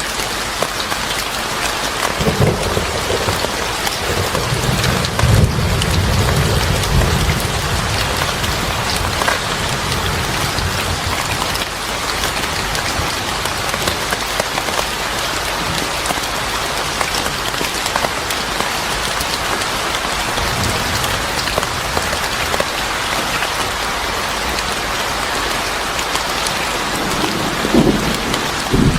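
Steady heavy rain falling. A low rumble of thunder swells a couple of seconds in, and a second rumble comes near the end.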